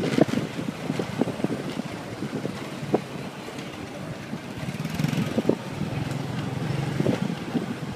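Motorcycle engine running under way, with wind buffeting the microphone and a few short knocks.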